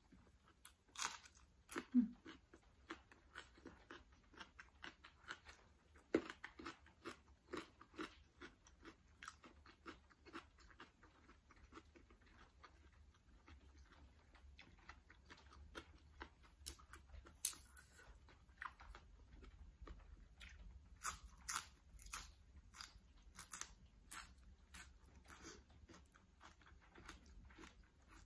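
Close-miked eating sounds: irregular bites and crisp crunches with chewing between them. The sharper crunches come about a second in and again in the last third.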